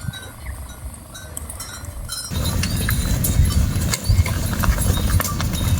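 Cattle hooves clip-clopping and clicking as a herd is driven along. A louder low rumble starts about two seconds in.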